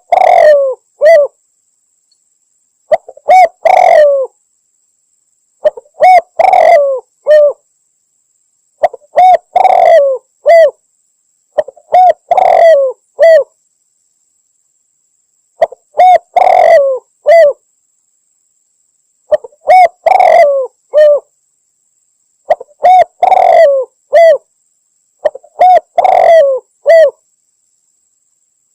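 Spotted dove (tekukur) cooing: a short phrase of three or four low coos, repeated about every three seconds with dead silence between phrases. This is a hunting lure call, which the uploader labels a female calling males.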